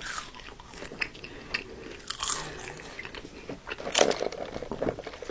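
Close-miked biting and chewing of breaded chicken nuggets: irregular crunches and crackles of the breading, the loudest about two and four seconds in.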